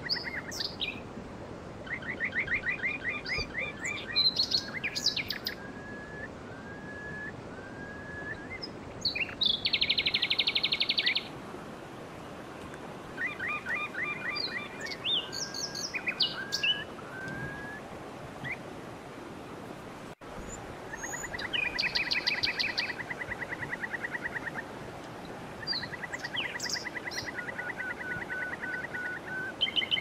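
Birds singing: repeated fast trills, each a second or two long, alternating with runs of short rising whistles, over a steady background hiss.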